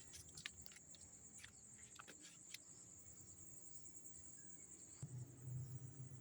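Crickets trilling steadily in a high, even drone, with a few faint clicks in the first few seconds and a low hum coming in about five seconds in.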